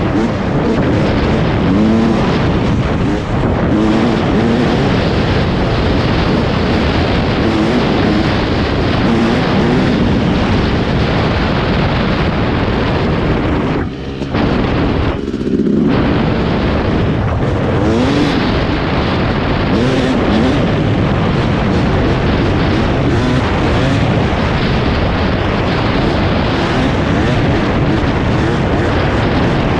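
Yamaha YZ250 two-stroke single-cylinder dirt bike engine running hard on a trail ride, its pitch rising and falling with the throttle. The engine note drops off briefly about halfway through, then picks up again.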